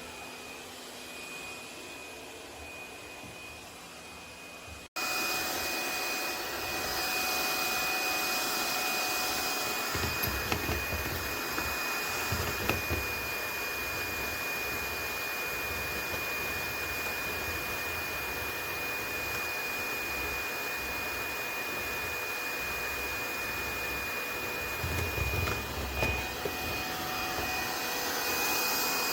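Laresar L6 Nex robot vacuum running: a steady motor hum with a thin high whine. It gets louder after a sudden break about five seconds in, with a few low rumbles along the way.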